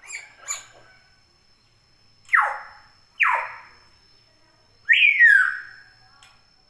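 Hill myna giving a few short chirps, then two loud, steeply falling whistles about a second apart, and a longer falling whistle about five seconds in.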